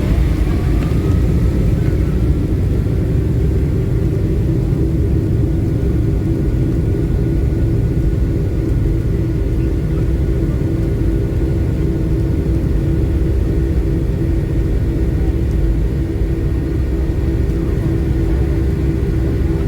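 Boeing 757-200 jet engines and airflow heard from inside the passenger cabin: a loud, steady low rumble with a steady hum of tones over it.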